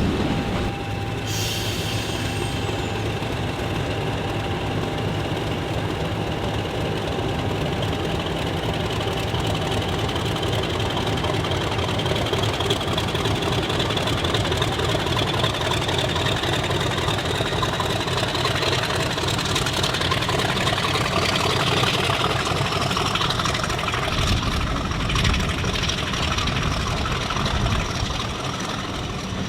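Train running with a steady engine drone and a high whine that slowly rises in pitch. A short hiss comes about a second in.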